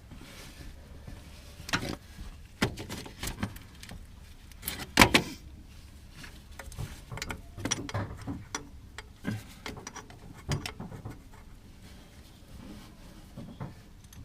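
Scattered knocks, clicks and rattles of parts and tools being handled while engine pipework is fitted, the loudest a sharp knock about five seconds in.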